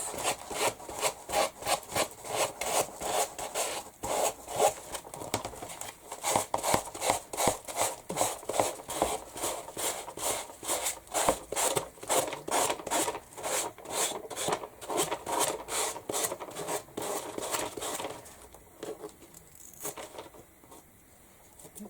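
Sanding block rubbed back and forth over a surface in quick, even strokes, about three or four a second, stopping about eighteen seconds in.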